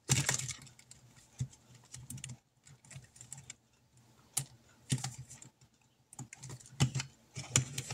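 Paper money and paper envelopes being handled and tucked away, making scattered short rustles and taps.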